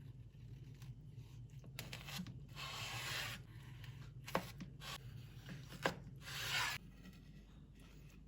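Three rubbing or scraping strokes, the last about six seconds in, with two sharp clicks between them, over a low steady hum.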